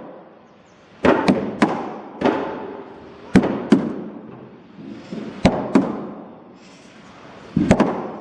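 Hand tool striking wooden boat timber: about ten sharp blows, mostly in pairs roughly every one to two seconds, each with a short ringing after it.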